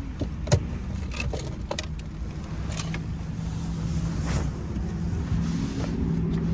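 A car's engine running with a steady low hum, with scattered sharp clicks and light rattles, the loudest click about half a second in.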